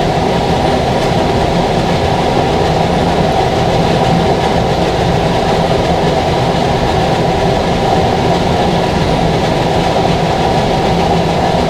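A steady, loud machine drone with a low hum, unchanging throughout, the kind of constant noise a running fan or motor makes.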